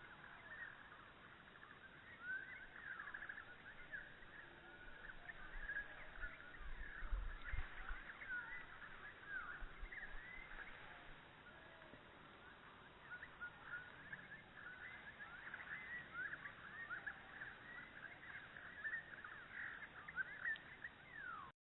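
Many birds chirping at once, a dense chatter of short overlapping calls. A few low thumps come about a third of the way through, and the sound cuts off abruptly near the end.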